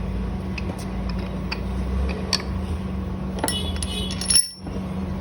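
Metal engine parts, a connecting rod and its pin, clinking and tapping against each other over a steady workshop hum. A few separate clicks come first, then a quick run of ringing metallic clinks about three and a half seconds in.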